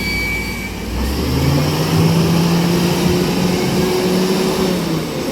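Truck engine revving up about a second in, then running steadily at higher speed.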